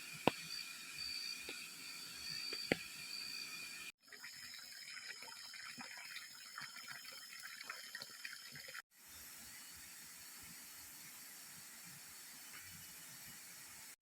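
Forest water ambience in three short stretches. First, insects sing in steady high tones over a background of running water, with a few sharp clicks. After a cut, water splashes and trickles in many small ticks. After a second cut, there is a steady, even rush of water.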